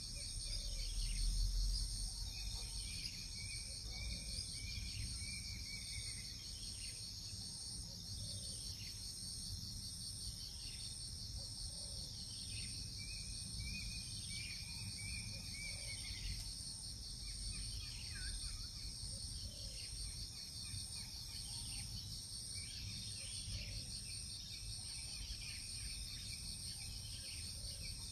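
Crickets and other insects trilling in a steady, pulsing chorus, with short higher chirps coming and going and a brief low rumble about a second in.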